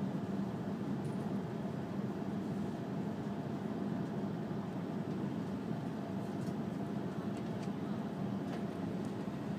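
Steady running noise of an E5 series Shinkansen heard from inside the passenger cabin: an even low rumble with a faint steady hum above it.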